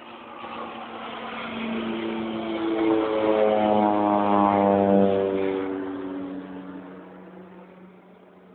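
Crop-dusting airplane's propeller engine passing low: it grows louder, peaks about halfway through as its pitch drops while it goes by, then fades away.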